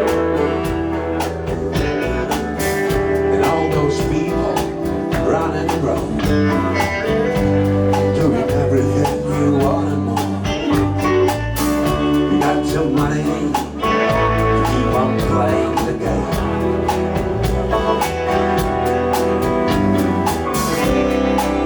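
Live blues-rock band playing an instrumental passage: electric guitar over bass and drums, with the drum hits coming at an even beat.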